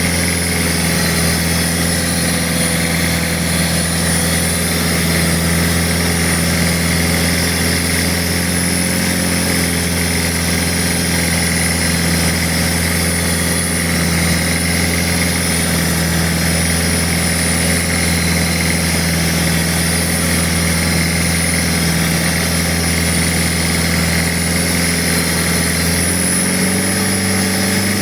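Boat engine running steadily under way; its note steps up slightly about two seconds before the end as the throttle opens.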